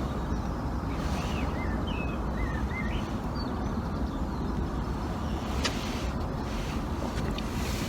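Steady low outdoor background rumble, with a few short wavering chirps about one to three seconds in and a single sharp click near the middle.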